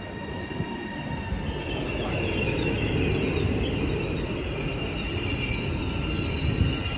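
Train running along the platform with a rumble that grows over the first few seconds and then holds steady, and a high squeal from its wheels on the rails.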